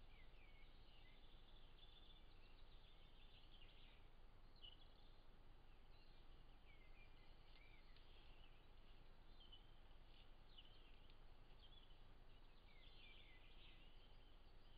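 Faint songbirds chirping and trilling on and off, over a steady low hum and hiss.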